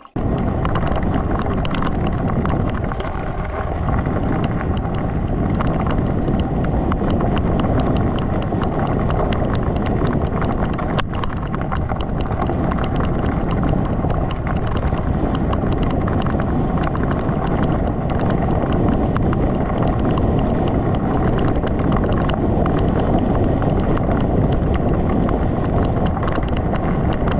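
Gravel bike tyres rolling over a rough, stony track, a steady rumble with constant rattling and clatter from the bumps.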